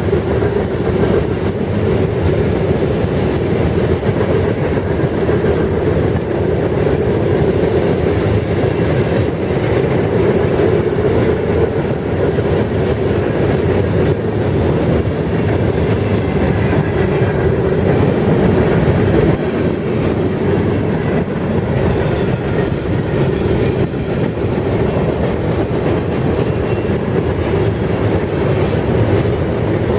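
Freight train cars rolling past at steady speed, a continuous rumble of steel wheels on the rails.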